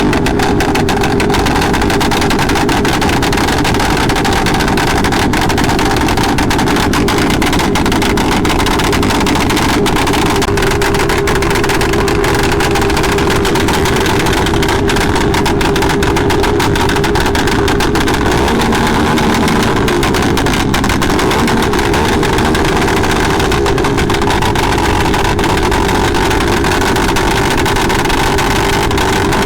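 Motorcycle engine running steadily at a constant pitch, with a continuous rush of noise over it.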